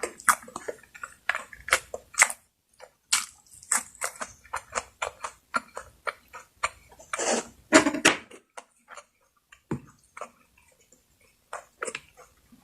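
Close-miked chewing and wet mouth sounds of a person eating: a quick run of smacks and crunchy clicks, with a longer, louder noisy stretch a little past halfway, then fewer and quieter smacks near the end.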